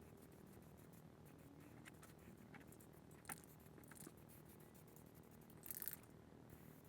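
Near silence with a few faint clicks, then a short hiss near the end: a brief burst from an aerosol can of high-temperature primer.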